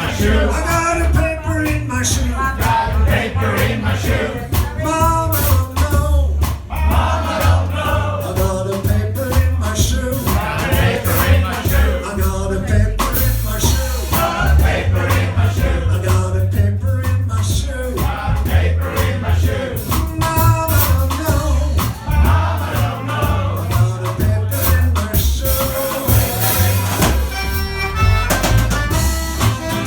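Cajun band playing live: a singer over a steady bass and beat, with an instrumental passage of held tones near the end.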